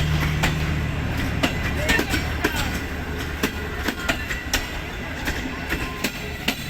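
Railway coaches rolling past, their wheels clacking over rail joints in an uneven run of sharp clicks over a steady rumble. A low drone fades out about a second in.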